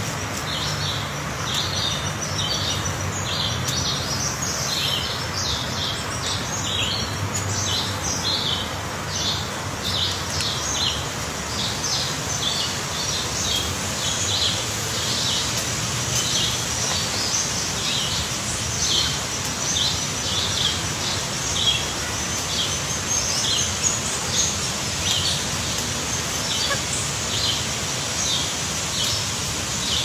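Bird chirping over and over, short high calls about once or twice a second, over a steady background hiss.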